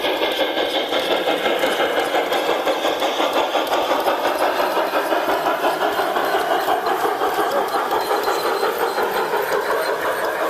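G-scale LGB model train running on garden track, a steady mechanical running sound with an even pulse about three times a second.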